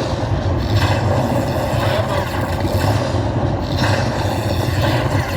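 Steady din of a casino floor around a slot machine, with a strong low rumble.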